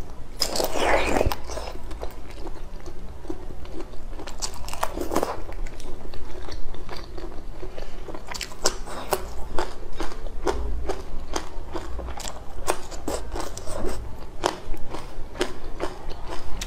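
Close-miked mouth sounds of biting and chewing braised egg, with many sharp crackling clicks of eggshell being cracked and peeled by hand.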